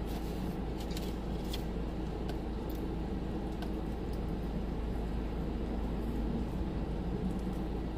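Steady hum inside a parked car, its engine and air conditioning running, with a few faint clicks.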